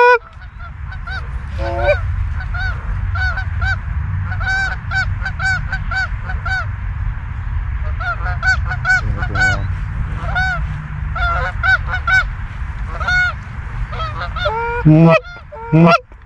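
A flock of geese honking, many short overlapping calls with a steady low rumble underneath. Two louder, lower honks come near the end.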